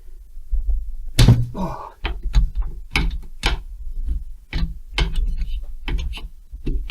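A run of short sharp clicks and knocks, about two to three a second, from tools and metal parts handled while a Stihl 070 chainsaw is being unscrewed and taken apart, with a low hum underneath.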